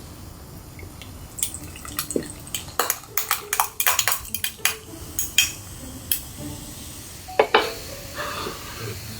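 A quick run of sharp clicks and clatter of tableware and utensils being handled, bunched in the first half and ending with two knocks near the end.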